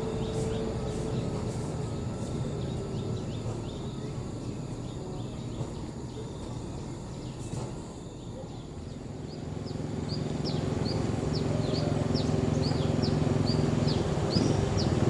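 A heavy truck's engine rumble fades away, then another truck's engine grows steadily louder from about ten seconds in. A bird chirps over it, short high notes repeated about twice a second.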